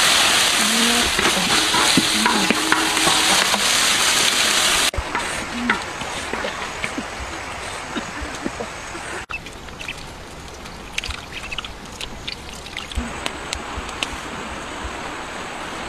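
Bullfrog meat with chillies and leaves sizzling hard in a large wok. The sizzle cuts off suddenly about five seconds in, leaving a quieter stretch with light clicks and knocks.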